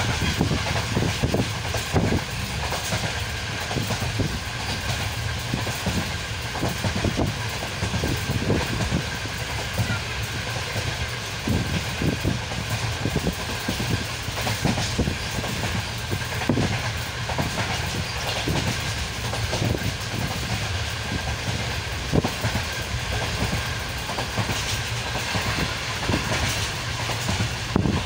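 Passenger train running along the line, heard from inside the carriage: a steady rumble with repeated clacks of the wheels passing over rail joints.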